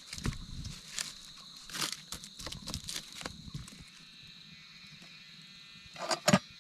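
Scattered crinkling, rustling and sharp clicks, as of things being handled, over a faint steady high tone; the loudest cluster of clicks comes about six seconds in.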